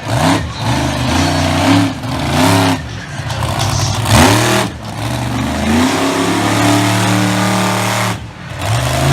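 Monster truck engine revving hard in repeated bursts, its pitch climbing and falling again and again. Near the end it holds high for a couple of seconds, drops off briefly, then revs up once more.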